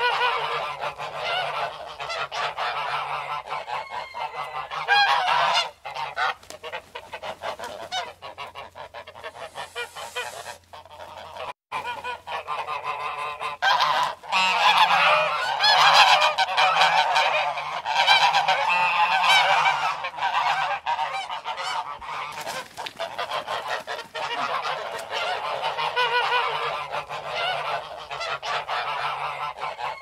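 Canada geese honking, many calls overlapping without pause, with a brief break a little before halfway and a louder stretch just after it.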